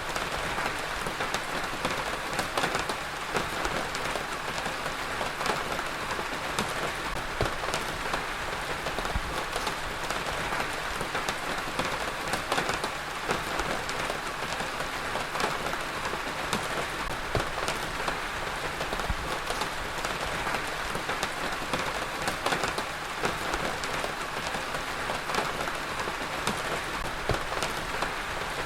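Heavy rain falling steadily, a dense even hiss with many individual drops ticking against a surface.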